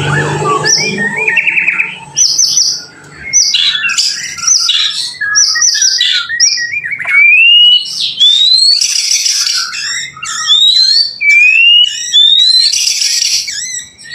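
White-rumped shama (murai batu) singing a fast, varied song of clear rising whistles and quick chattering notes, with two loud scratchy bursts about halfway through and near the end.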